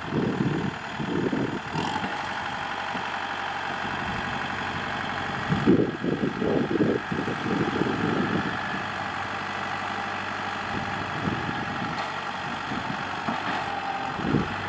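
Kubota M6040SU tractor's diesel engine running steadily, with heavier low rumbles coming and going near the start and about six to eight seconds in.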